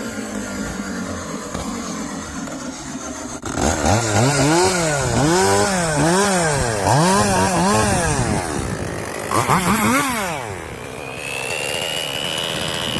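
Stihl MS461 two-stroke chainsaw running. From about three and a half seconds in it is revved up and down over and over, about one rise and fall a second, then once more in a short second spell near ten seconds.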